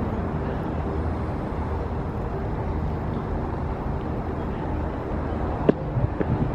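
Steady city street ambience with the low rumble of passing traffic, and a couple of short sharp knocks near the end.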